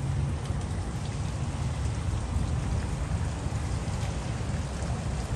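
Steady rain falling, an even hiss of drops with a deep rumble underneath.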